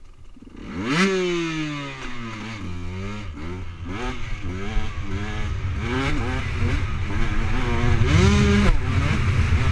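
Motocross bike engine revving hard, its pitch climbing steeply about a second in and then falling away. A run of short rev blips follows as the rider works the throttle and gears, then another strong surge near the end, all over a constant low rumble.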